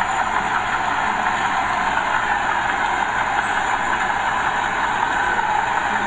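Heavy diesel earthmoving machinery running steadily, an even continuous engine noise with no pauses or sudden knocks.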